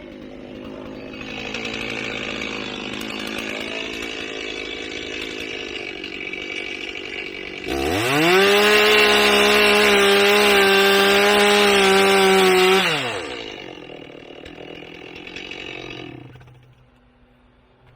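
Chainsaw engine running, then revved hard to a loud, steady high pitch about eight seconds in and held for about five seconds. It drops back to idle and dies away near the end.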